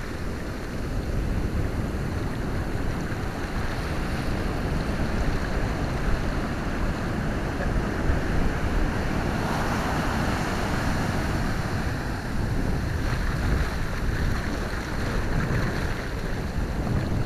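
Ocean surf breaking and washing up the beach, with wind buffeting the microphone; a wave surges louder about ten seconds in.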